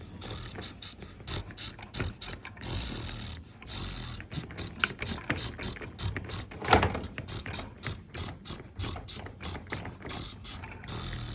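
Toy truck's plastic gears clicking and rattling as it drives, with one louder knock about seven seconds in.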